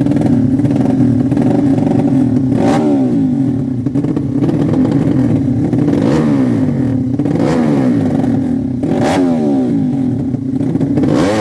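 Modified motorcycle engine running loudly at a steady idle, its throttle blipped again and again so the pitch swings up and back down every second or two, with a bigger rev rising near the end.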